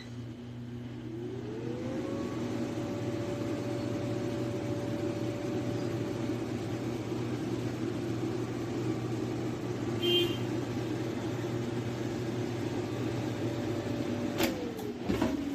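Air fryer's fan motor spinning up with a rising whine about a second in, then running with a steady hum. Near the end the whine falls away as it winds down, with a couple of clicks.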